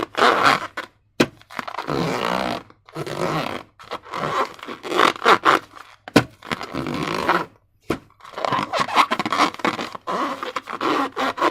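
Slime and rubber balloons being worked by hand: irregular wet squishing and rubbing in bursts of about a second with short pauses between, and a few sharp clicks.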